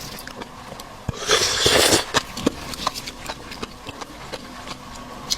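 Close-miked eating sounds from a seafood meal: a loud, noisy slurp-like burst about a second in, lasting under a second, then scattered short wet clicks of chewing and mouth movement.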